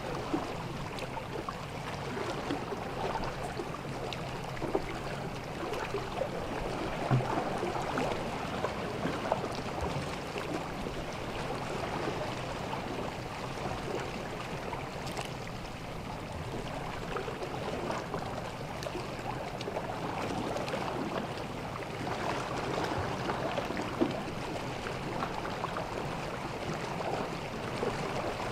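Gentle sea waves washing on a beach, a steady wash full of small crackles and fizzing, swelling a little twice as larger waves come in.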